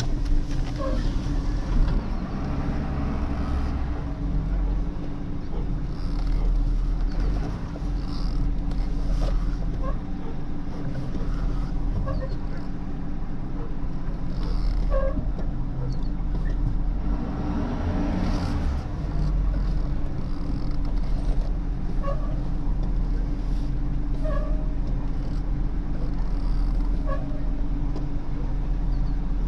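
Tow truck engine running with a steady low drone, heard from inside the cab while the truck backs in slowly.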